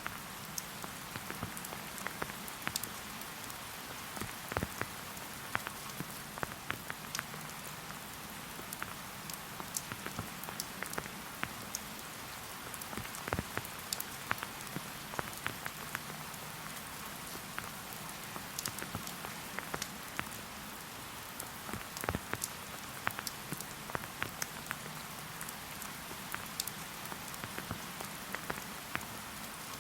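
Steady rain falling in a forest, a constant hiss with many close individual drops pattering and ticking on surfaces.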